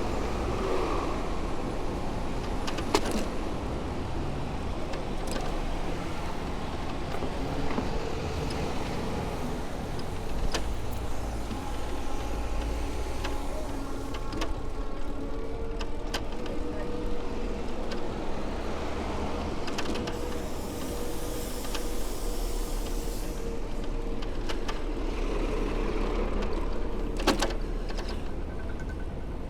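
City street traffic heard from a moving bicycle: a steady low rumble of road and vehicle noise, with a steady whine for several seconds from about halfway through, a brief high hiss about two-thirds in, and scattered sharp clicks.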